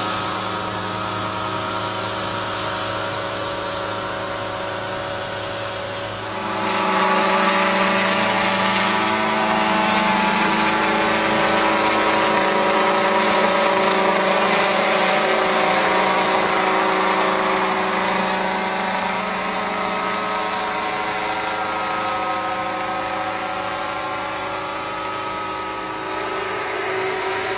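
Helicopter running steadily with a whine of several steady tones. It gets louder about six seconds in, then slowly eases off.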